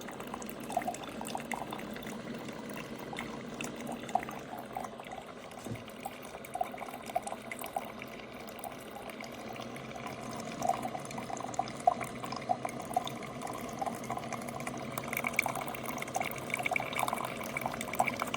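Ninja DualBrew coffee maker brewing: liquid trickles and pours steadily, with many small irregular gurgles that grow busier about halfway through.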